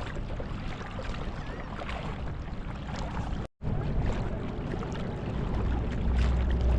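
Small boat's motor running steadily under way, with water and wind noise around it. The sound cuts out briefly about halfway through, and the low engine hum grows louder near the end.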